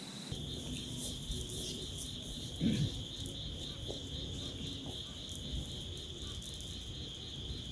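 Steady high-pitched drone of an insect chorus in the forest, with one short low sound a little before the middle.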